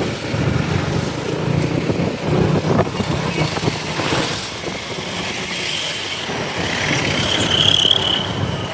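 Motorcycle engine running steadily under a pillion rider, with wind and road noise from city traffic. A short high-pitched tone rises out of the noise near the end.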